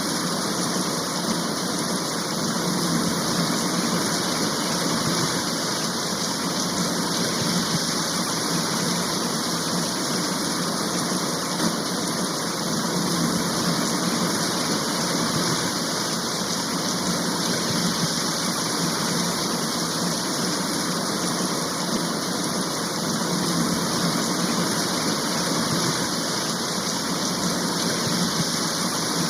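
Steady rain shower, an even, unbroken hiss of heavy rain.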